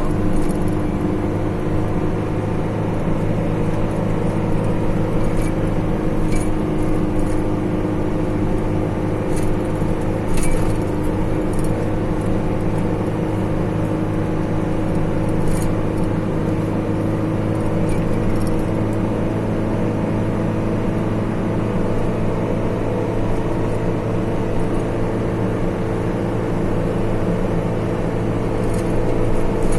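Car driving at a steady speed: an even engine hum over road noise, with a few faint clicks.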